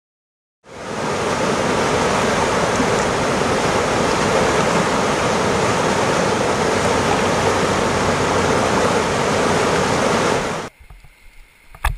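Loud, steady rushing of whitewater in river rapids, starting abruptly after a moment of silence and cutting off suddenly near the end.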